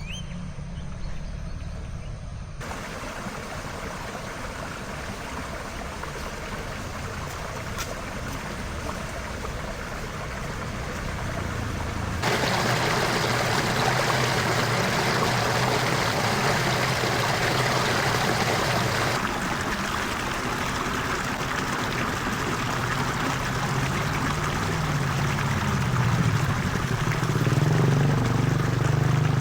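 Steady rushing of flowing water, its level jumping abruptly a few times, with a low engine-like hum building near the end.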